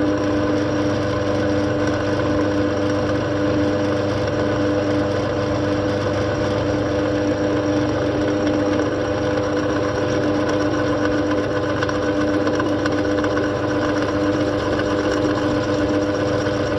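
A motor or engine running steadily with an unchanging hum, its pitch and loudness constant throughout.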